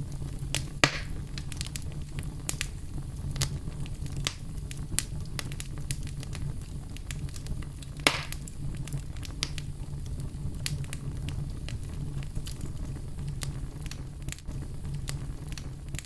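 Fire burning in a fireplace: a steady low rumble of flames with scattered sharp crackles and pops, two of them louder, about a second in and about eight seconds in.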